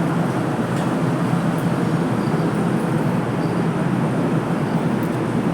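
Inside a Toei Mita Line subway car, the train makes its steady running rumble on the rails.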